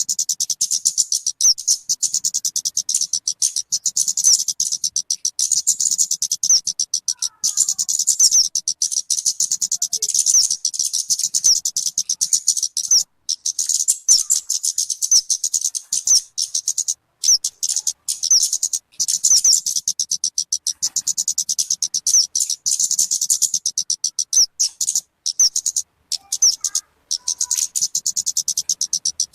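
Recorded song of the talokan (kemade) bird: a fast, unbroken run of high, sharp chirps, many to the second, stopping briefly a few times, over a faint low hum.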